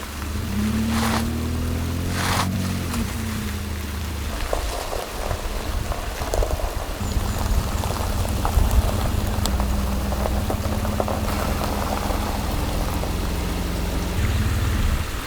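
A vehicle engine running with a low hum whose pitch shifts in the first few seconds, under the steady patter of rain with scattered drops.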